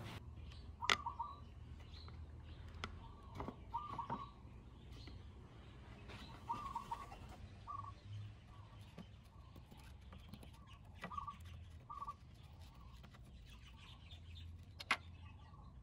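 Faint bird calls, short chirps recurring every second or two over a low steady hum. A few sharp clicks come from small drain-plug parts being handled on the bench, the loudest near the end.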